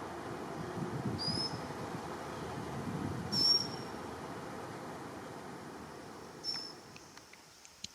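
A small bird giving three short, thin, high-pitched calls, a couple of seconds apart, over a low background rumble that fades near the end.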